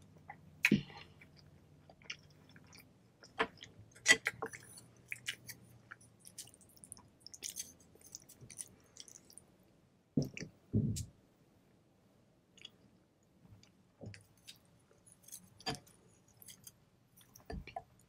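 Close-miked chewing of pho noodles: irregular wet smacks and clicks of the mouth, with a louder low knock about ten seconds in.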